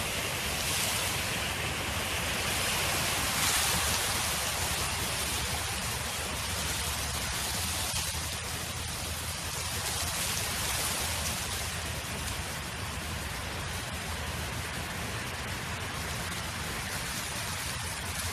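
Wind blowing across an open field: a steady rushing hiss that swells a little in the first few seconds, then settles.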